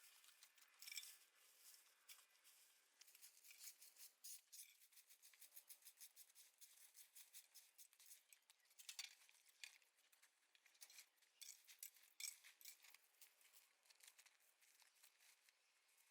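Faint, quick snipping and crackling clicks, several a second, of dry vegetation being cut by hand.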